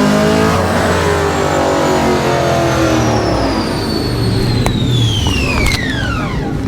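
A car being run on a chassis dyno: the engine revs at full load, then eases off while a high whine falls steadily in pitch as it winds down. Two sharp clicks come near the end.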